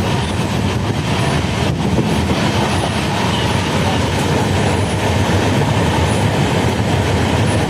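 Moving passenger train heard from aboard: a steady loud rumble of wheels on the rails with a few faint clicks.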